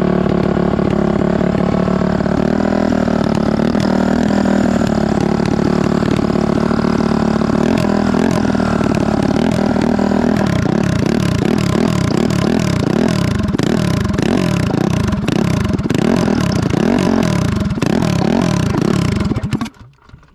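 Single-cylinder Honda CRF450 four-stroke engine in a go-kart running steadily. From about halfway the throttle is blipped again and again, the revs rising and falling in quick succession, until the engine cuts off suddenly near the end.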